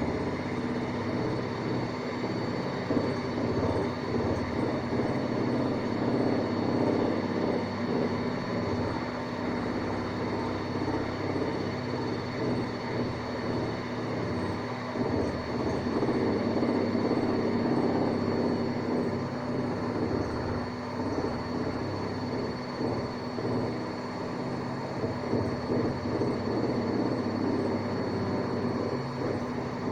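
Hanseatic washing machine on its spin cycle, running loudly: a steady hum with a rough rumble under it.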